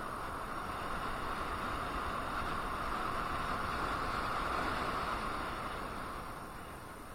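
Road and wind rush heard while riding an electric unicycle. It swells over the first few seconds and fades near the end.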